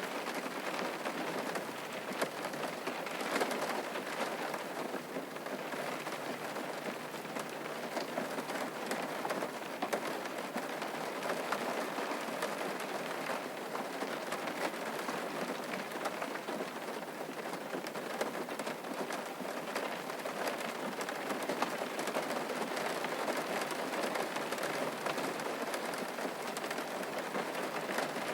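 Steady rain falling and pattering on surfaces, with many individual drops heard as fine ticks.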